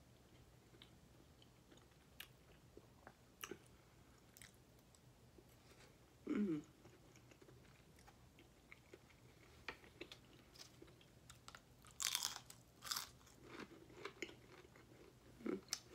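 Close-up, quiet chewing of a mouthful of breakfast potatoes, with small mouth clicks. There is a brief low hum about six seconds in, and a couple of sharper crunchy sounds around twelve seconds.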